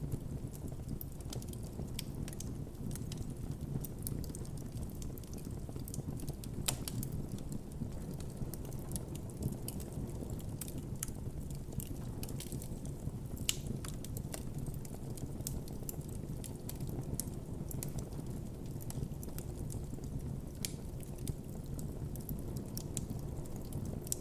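Wood campfire burning, with a steady low rustle of the flames and frequent irregular crackles and sharp pops of the burning wood.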